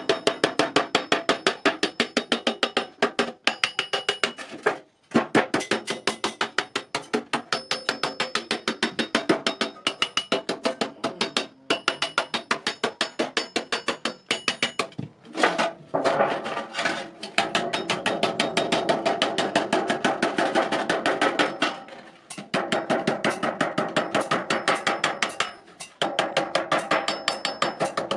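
Hammer striking iron in rapid, steady blows, several a second, with a bright metallic ring after each. The strokes stop briefly a few times and pick up again.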